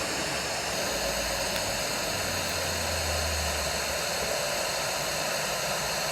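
Wind on an outdoor nest-camera microphone: a steady hiss with a low rumble from about one to four seconds in.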